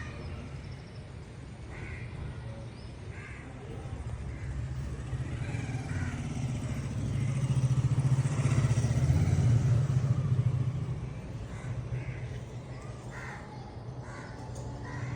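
Low engine rumble of a passing motor vehicle, swelling to its loudest a little past the middle and then fading away. Short bird calls sound now and then over it.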